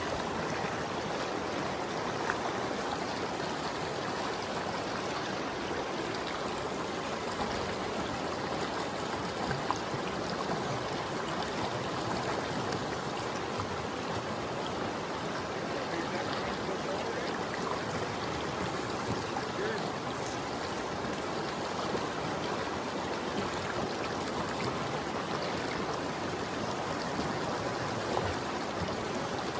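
River water flowing: a steady, even rush with a few faint ticks.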